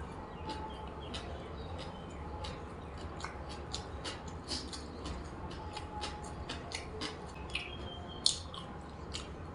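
Close-up eating sounds: wet chewing and lip smacks, a few sharp clicks a second, with one louder click a little past eight seconds in.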